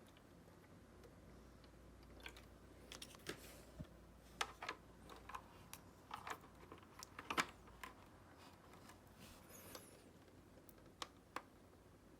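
Scattered light clicks and taps, irregular and sparse, of small hard objects being handled, over a faint background.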